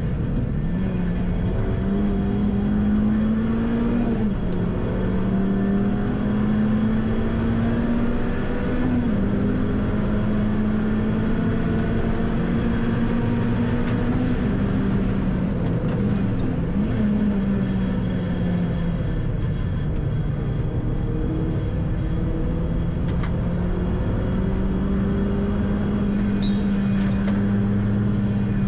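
Renault Clio III RS's naturally aspirated four-cylinder engine heard from inside the cabin under hard driving on a race track. The revs climb and drop sharply at gear changes a few seconds in, fall away under braking past the middle, then hold steady, over constant tyre and wind noise.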